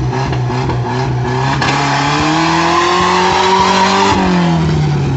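Nissan K24 engine revved up: its note climbs over about two seconds, holds, then drops back toward idle about four seconds in.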